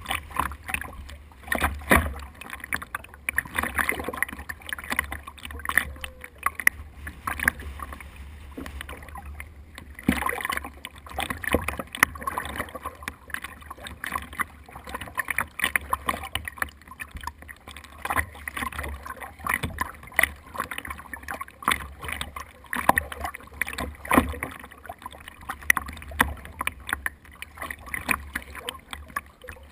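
Water splashing and slapping against a small boat's hull as it rides the waves, with irregular knocks and clatter and a steady low rumble.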